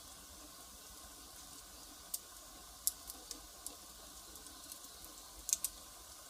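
Firewood fire crackling: a soft steady hiss broken by scattered sharp pops, a few in the middle and the loudest pair about five and a half seconds in.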